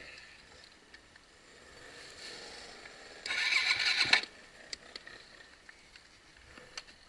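Yamaha 250 WR-F four-stroke enduro bike, stalled: about three seconds in, a single start attempt gives a rough burst of cranking about a second long, and the engine does not catch.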